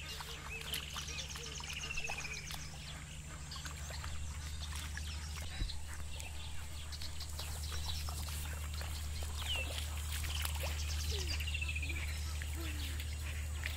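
A bird calling twice, each call a rapid run of high notes falling in pitch, over light splashing in shallow river water and a steady low hum.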